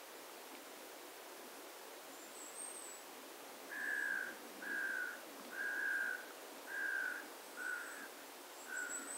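A bird calling the same short, even-pitched note about once a second, six times, starting about four seconds in. Faint, thin high calls of small birds come now and then over a soft background hiss.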